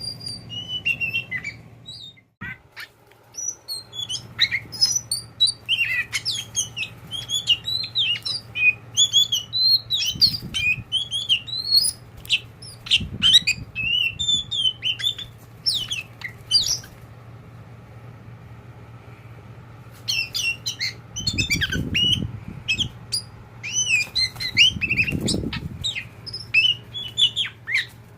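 Oriental magpie-robin (kacer poci) singing a fast, varied song of chirps and whistles, falling silent for about three seconds past the middle, over a steady low hum.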